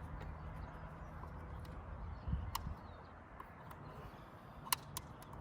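A few sharp, light clicks and a dull knock as fuel filter parts (housing, O-ring, gasket) are handled, over a low steady hum. The loudest click comes near the end.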